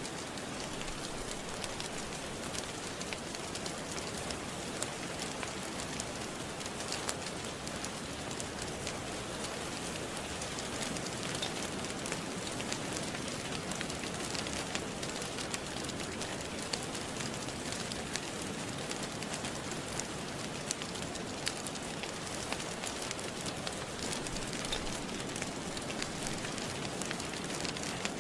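Steady rain with scattered sharp crackles and pops of a wood fire burning in a fireplace.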